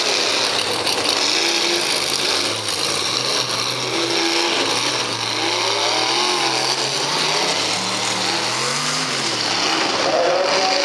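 A mega truck's engine revving up and down over a steady hiss, with its pitch swelling to a peak about six seconds in and again near nine seconds.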